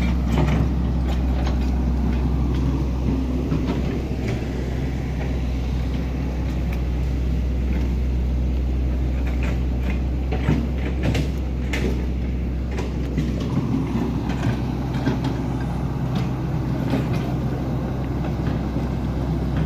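An engine running steadily at low pitch, with scattered knocks and clanks over it.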